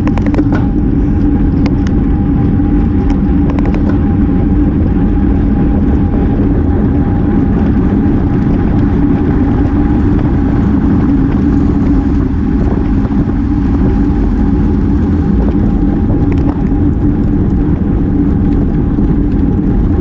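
Steady wind rush and road noise on a bicycle-mounted action camera while riding in a road race, with a constant low hum and a few light clicks near the start.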